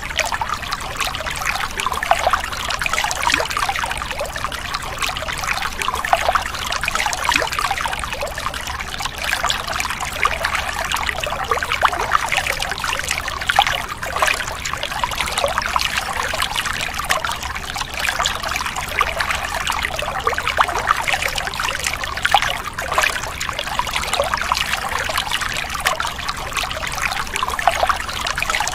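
A steady stream of water pouring and splashing onto plastic toy vehicles and the floor around them, washing caked mud off the toys.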